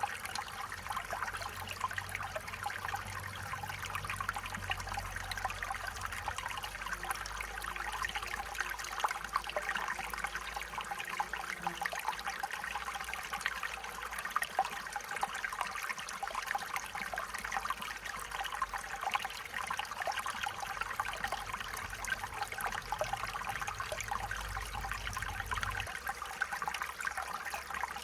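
Stream water running steadily, a continuous babbling trickle.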